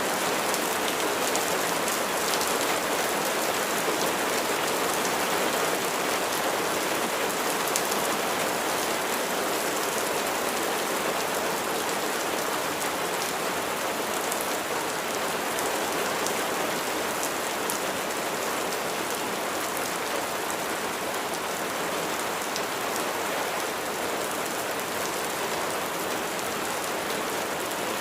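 Steady, heavy rain falling, an even hiss with scattered individual drops ticking through it.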